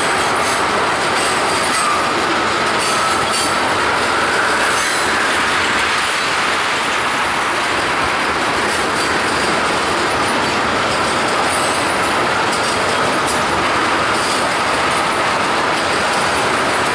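Freight train of tank cars rolling past close by, a steady rumble of steel wheels on rail. A faint high squeal rises and falls through it.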